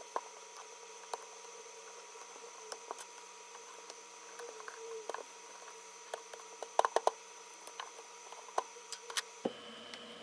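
Blade scraping the old, UV-degraded polarizer film and its adhesive off LCD glass: scattered small scrapes and sharp clicks, bunched into a quick flurry past the middle, over a faint steady electrical whine.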